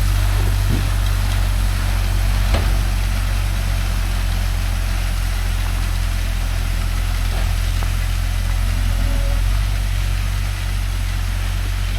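Kubota KX040-4 mini excavator's diesel engine running steadily while it grades gravel, with one brief knock about two and a half seconds in.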